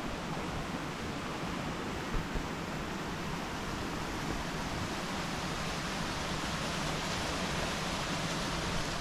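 Waterfall rushing steadily, an even hiss spread across the whole range, with two short knocks a little over two seconds in.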